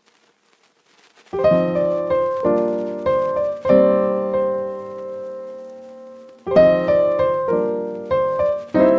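Piano music. After about a second of near quiet, a series of struck chords ring and fade. One chord is held for a few seconds in the middle, and a new phrase of chords begins near the end.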